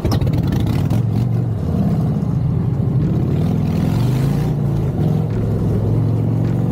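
A vehicle engine running steadily at low revs, its pitch wavering slightly up and down.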